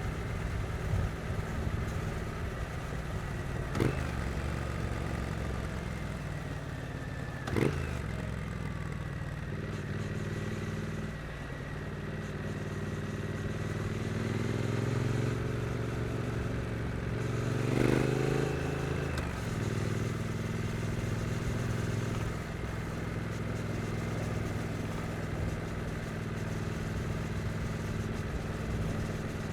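Triumph Street Twin's 900 cc parallel-twin engine running at low revs, with two short, sharp throttle blips a few seconds apart. Revs climb gradually and peak in a third blip, then settle back to a steady low rumble.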